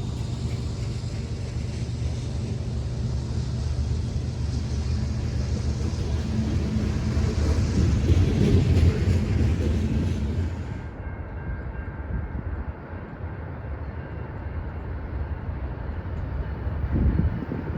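Train running by with a steady heavy rumble that swells about 8 seconds in, then gives way suddenly to a quieter, more distant rumble that builds again near the end.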